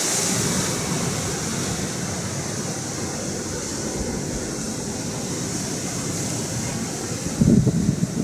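Atlantic Ocean surf washing steadily, with wind buffeting the microphone in a brief gust near the end.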